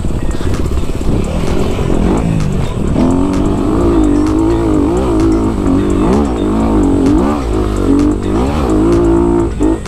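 Honda CRF250RX dirt bike's four-stroke single-cylinder engine under way, its revs rising and falling again and again as the throttle is worked, with a brief drop in the revs near the end.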